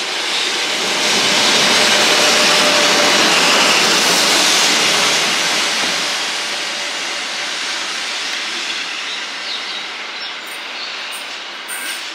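A train passing close by: a rushing rumble of wheels on the rails that swells over the first second, stays loud for about five seconds, then slowly fades away.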